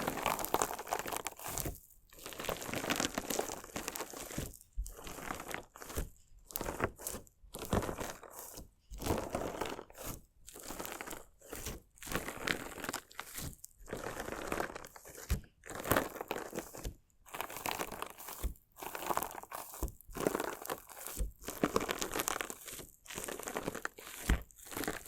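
Crunchy slime being squeezed and cut close to a binaural microphone: repeated crackling crunches, each lasting about a second, with short silent pauses between them.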